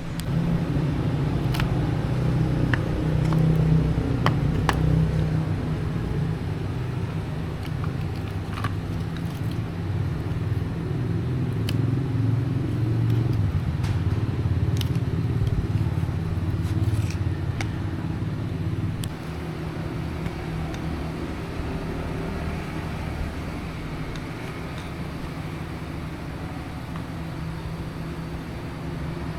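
A machine runs steadily with a low rumble, louder over the first several seconds and easing off in the second half, with scattered sharp clicks over it.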